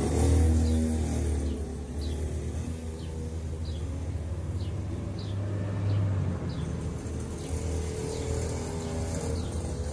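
50cc two-stroke dirt bike engine running at lower revs after the throttle drops off, with a brief rise in revs about six seconds in. A faint short high chirp repeats every half second or so over it.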